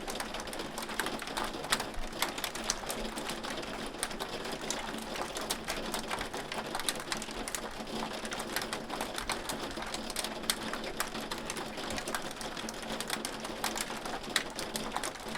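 Hail falling steadily: a dense patter of hailstones with many sharp, irregular clicks as stones hit hard surfaces.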